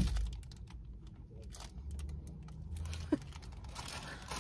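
Close-up chewing of soft ube bread: a scatter of small, quick mouth clicks, with a short low hum in the middle.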